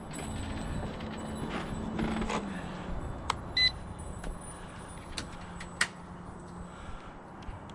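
Handling noise with scattered sharp clicks over a low hum, and a single short electronic beep about three and a half seconds in.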